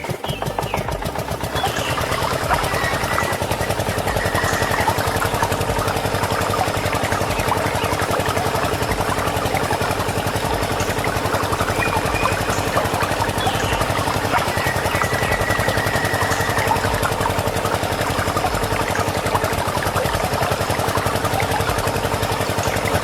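An engine running steadily with a rapid, even chug, starting right at the beginning.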